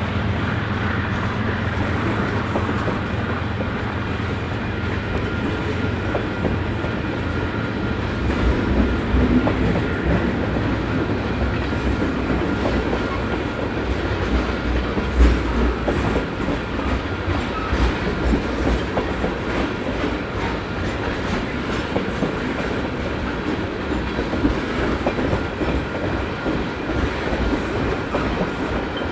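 Freight cars of a manifest train rolling past, wheels clacking over rail joints over a steady rumble, with occasional heavier thumps, the loudest about halfway through.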